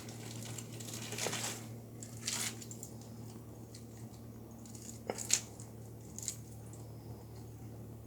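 Crisp rustling and crinkling as iceberg lettuce is torn and laid onto sandwiches, with a few sharp ticks among the rustles, over a steady low hum.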